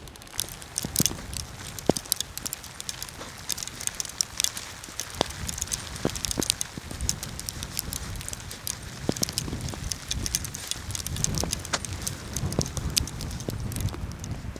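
Wind gusting over the microphone in a snowstorm, with many irregular sharp clicks and crackles scattered through it.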